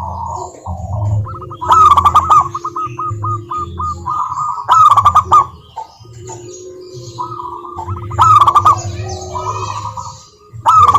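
Zebra dove (perkutut) cooing: loud bursts of rapid coos about every three seconds, some trailing into a string of quick staccato notes, over a low steady hum.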